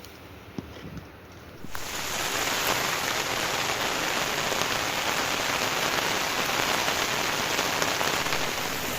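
Heavy rain falling on a surface. It starts as a quieter patter with a few separate drips, then about two seconds in jumps suddenly to a loud, dense, steady hiss of downpour.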